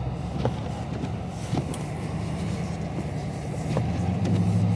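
The 2022 Dodge Charger Scat Pack's 392 (6.4-litre) HEMI V8 running low and steady, heard inside the car's cabin, with a few faint clicks. The hum swells a little about four seconds in.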